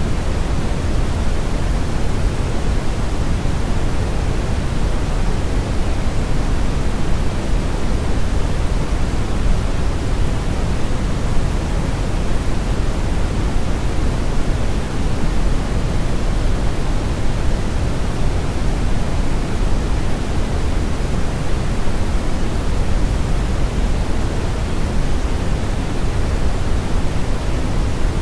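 Steady brown noise: an even, unbroken rushing hiss weighted heavily toward the bass, with the high end rolled off.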